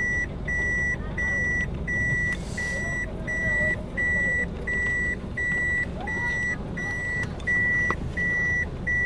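Homemade truck's reversing beeper sounding a steady, even high beep just under twice a second as the truck backs up in reverse gear, with its engine running underneath.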